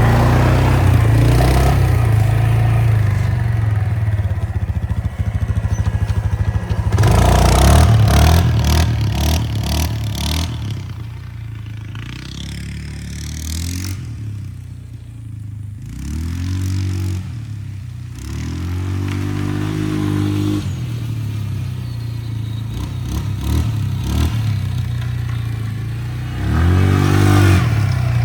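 A motor vehicle's engine running and revving up several times, rising in pitch with each rev, with a loud noisy stretch about seven seconds in.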